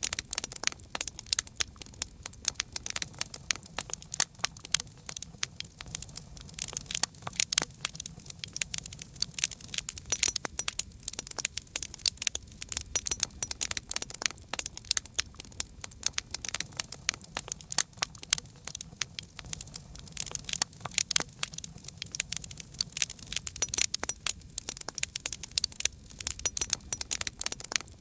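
Wood fire crackling: many irregular sharp pops and snaps, dense and unbroken, over a faint low rumble of the burning.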